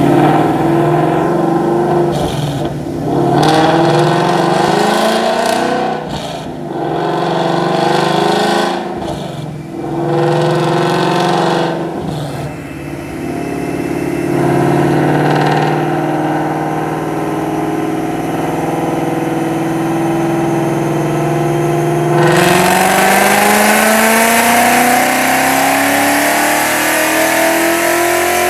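S550 Ford Mustang engine and exhaust running on a chassis dyno: it revs with four brief dips in the first dozen seconds, then holds a steady pitch. About twenty-two seconds in it gets louder and its pitch climbs steadily in a dyno pull.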